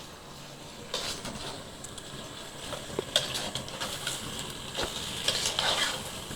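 Chicken pieces sizzling steadily as they fry in oil in a pan, with a few scraping and clinking strokes as they are stirred.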